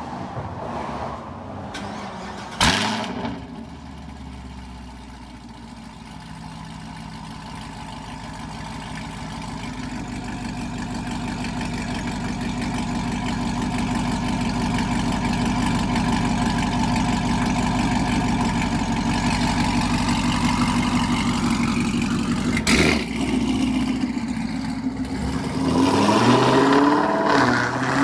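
Camaro SS V8 with catless long-tube headers and a tune, running as the car drives. Its level builds over several seconds under throttle and then holds. A sharp exhaust pop comes about three seconds in and another later on, typical of this catless, tuned setup.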